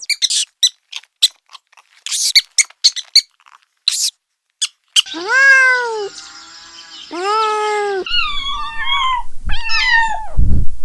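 Small animals calling: a run of short, high squeaks and chirps for about five seconds, then two long, arched cries and several shorter, wavering cries. A deep thump comes near the end.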